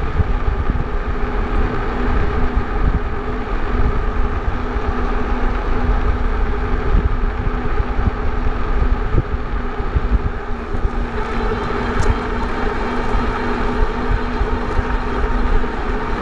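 Wind rushing over the microphone of a moving e-bike, a heavy fluttering rumble, with tyre noise from the road and a steady hum from the bike's electric motor. The road noise grows somewhat about two-thirds of the way through.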